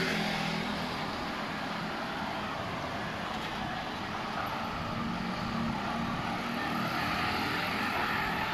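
An engine drones steadily over a wash of wind and surf noise, fading a little and building again partway through.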